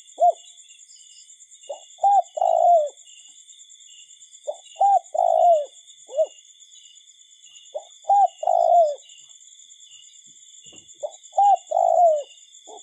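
A bird repeats a low four-note phrase about every three to four seconds; the third note in each phrase is the longest and falls in pitch. Under it runs a steady, shrill drone of insects.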